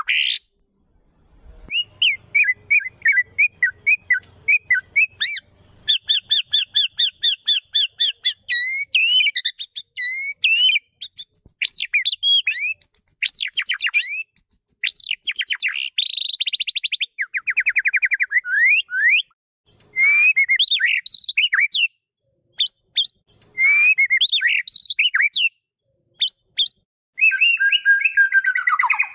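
White-rumped shama (murai batu) singing a long, varied song of whistled notes, rapid repeated chips and fast trills, with a few short pauses in the later part.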